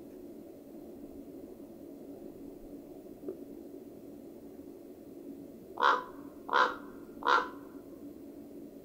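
Common raven calling three harsh, hoarse croaks in quick succession, about two-thirds of a second apart, over a faint steady low hum.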